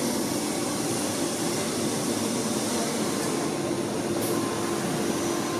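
Kärcher IVR-L 65/12-1 Tc industrial vacuum cleaner running steadily, a continuous rushing suction noise with a low steady hum under it.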